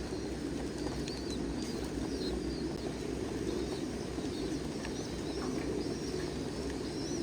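Domestic pigeons cooing together in a steady, unbroken chorus, with short high chirps scattered over it.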